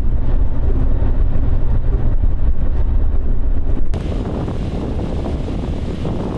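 Off-road vehicle driving through fresh snow in low-range second gear, a steady low engine and drivetrain drone. About four seconds in it cuts abruptly to a quieter, hissing noise.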